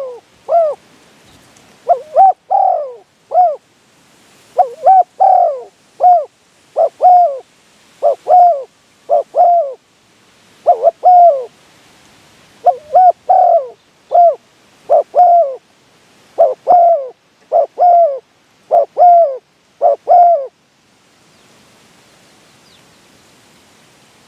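Spotted doves cooing loudly: phrase after phrase of short hooting notes, each falling in pitch. The calls stop about twenty seconds in.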